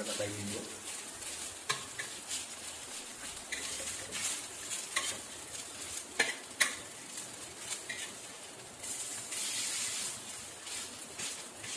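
Pumpkin-flower and mushroom fritters frying in oil on a flat griddle pan (tawa), with a steady sizzle. A spatula clicks and scrapes against the pan now and then as the fritters are moved.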